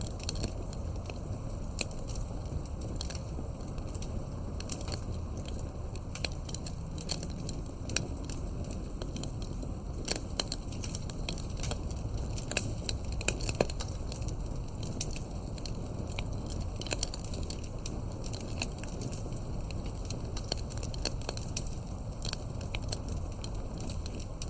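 Campfire burning with a steady low rumble and many irregular sharp crackles and pops of burning wood.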